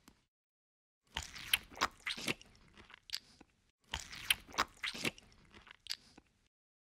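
Crunchy biting and chewing, in two bouts of a couple of seconds each, made up of sharp crackly crunches.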